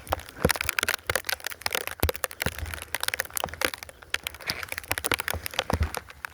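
Snow crunching and crackling: a dense run of irregular clicks and crackles.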